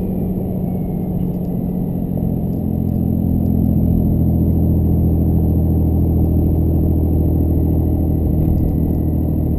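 2007 Cummins 5.9-litre inline-six turbodiesel with compound turbochargers, heard from inside the pickup's cab while driving. Its steady drone builds slightly over the first few seconds, then holds at an even engine speed.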